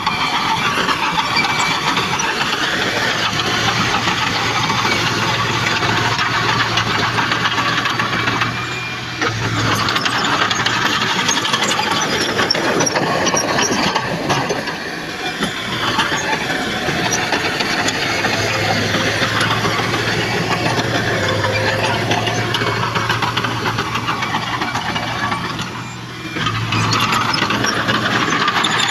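Heavy earthmoving machinery working: a diesel engine running under a dense, continuous metallic clatter, with a low engine hum that rises and fades and brief dips in loudness about a third of the way in and near the end.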